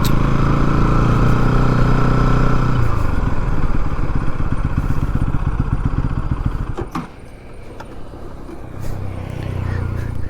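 Bajaj Pulsar NS200's single-cylinder engine running steadily. Its note changes about three seconds in, and the sound drops away about seven seconds in.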